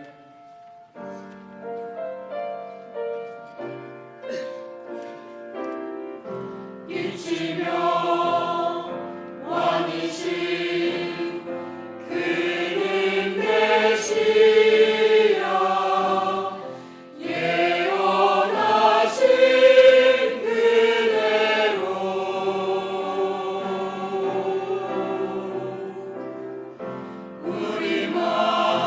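Church choir singing a Christmas cantata with accompaniment. It opens quietly on held, stepping notes, then the full choir comes in loudly about seven seconds in and sings on, with a short dip in the middle.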